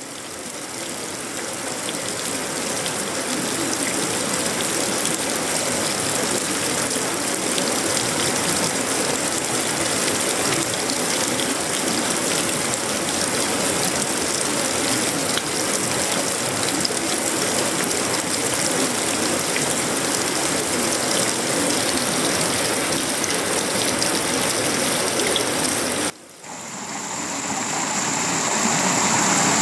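Tropical rain falling steadily on sheet metal, wood and leaves: a dense, even patter of drops. Near the end it cuts out for a moment and fades back in with a steady high-pitched whine added.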